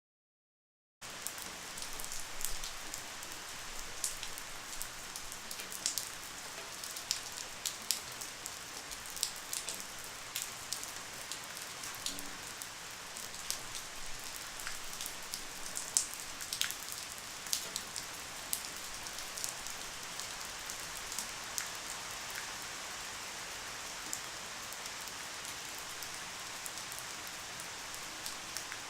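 Light rain falling steadily, a soft hiss with many close individual drops pattering, starting suddenly about a second in.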